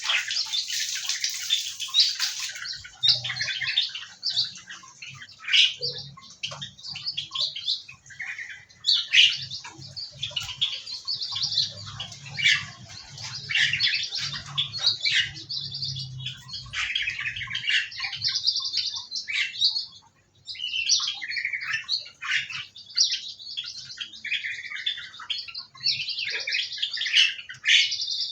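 A flock of small aviary birds chirping and calling continuously in many overlapping short notes, with a faint low hum underneath for much of the time.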